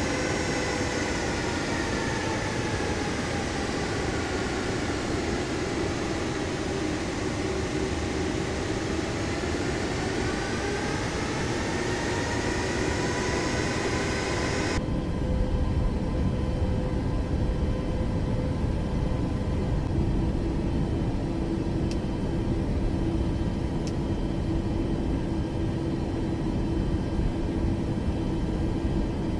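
Jet airliner engines running, their whine falling and then rising again. About halfway through the sound cuts to a duller, steady rumble, and a low steady hum comes in a few seconds later.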